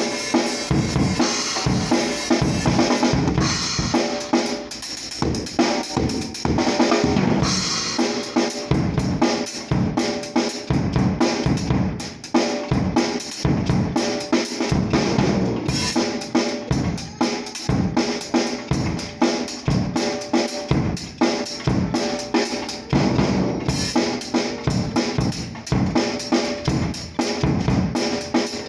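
Acoustic drum kit played alone in a steady groove: regular bass drum and snare hits under ringing cymbals, with no other instruments. Picked up by a mobile phone's microphone.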